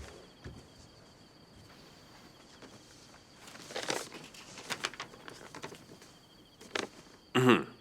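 Crickets chirping steadily as a high, thin background, with a few soft knocks early on and a stretch of quiet rustling in the middle; a short vocal sound comes just before the end.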